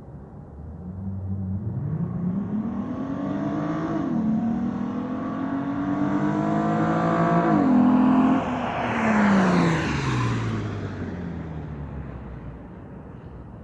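2008 Lexus IS250 AWD's 2.5-litre V6, straight-piped through a muffler delete, accelerating hard toward and past: the pitch climbs, drops twice as it upshifts, then falls as the car passes and fades away.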